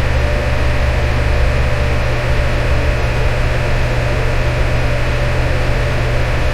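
Electric fan running steadily: an even rush of air with a deep hum underneath and a faint steady tone above it.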